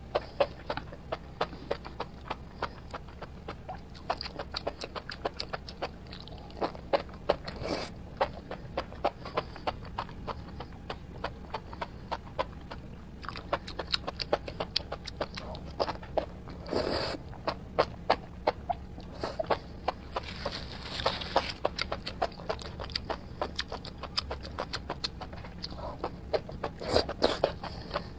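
Close-miked chewing of enoki mushrooms in spicy chili-oil sauce: a dense, irregular run of wet, crisp mouth clicks, with a few longer, louder mouth sounds now and then.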